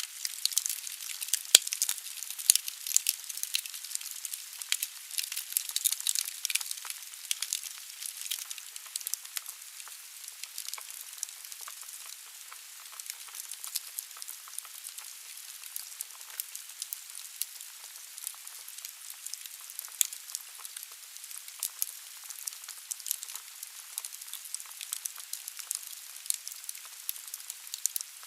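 Logs burning in a fireplace: a steady hiss of fire with dense crackling and popping of the wood. One sharper pop comes about a second and a half in, and the crackling thins out after the first eight seconds or so.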